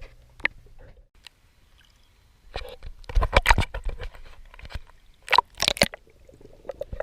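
Water sloshing and splashing from a swimmer's strokes, in two bursts a couple of seconds apart, with small clicks and drips between them.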